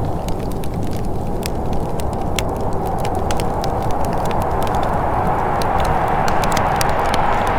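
Wood fire crackling with many small, irregular pops, over a steady rushing of wind.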